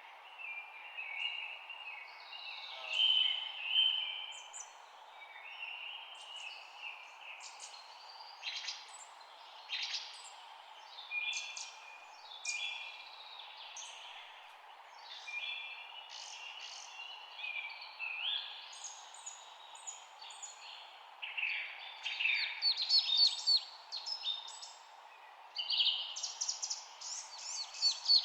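Several songbirds chirping and singing in short, overlapping calls over a steady background hiss, with loud rapid trills of repeated notes near the end.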